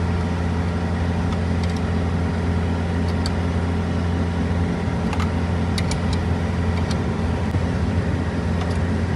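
Semi truck's diesel engine idling steadily, an even low drone with a few light ticks.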